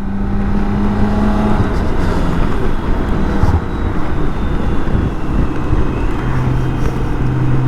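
BMW K1600 GTL inline-six motorcycle engine under way as the bike pulls away, with heavy wind rush on the microphone. The engine holds one steady note at first, then settles onto a lower steady note near the end.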